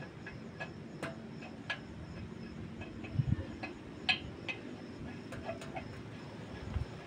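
Irregular light metallic clicks and clinks, some with a brief ring, as of hand tools and brake parts being handled during a disc brake pad replacement.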